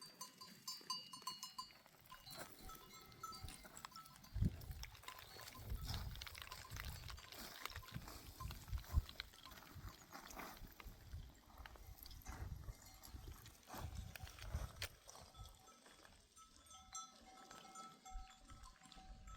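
Livestock bells ringing on and off as a herd of goats or sheep moves, with irregular low thumps and rumbles underneath.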